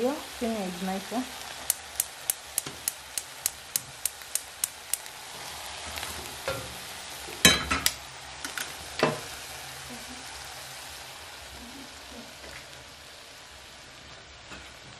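Beef frying and sizzling steadily in a pot, while a wooden spoon stirs it and knocks against the pot about three times a second for a few seconds. Two louder knocks of the spoon or pot follow about halfway through.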